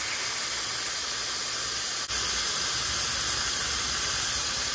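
Vacuum brake bleeder hissing steadily as it draws fluid out of the motorcycle's rear brake during a brake flush, with a brief dip about two seconds in.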